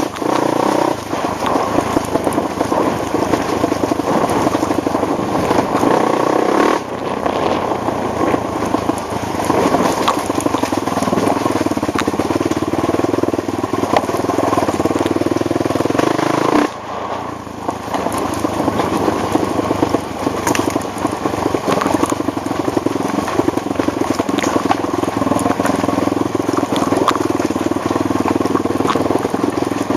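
ATV engine running steadily as the machine is ridden, easing off briefly twice, about a quarter and just over halfway through.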